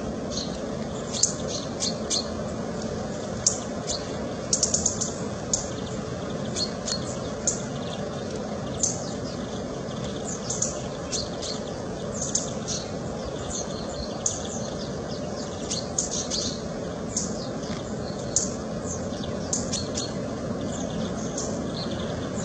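Small birds chirping and calling in many short, irregular chirps over a steady low background hiss.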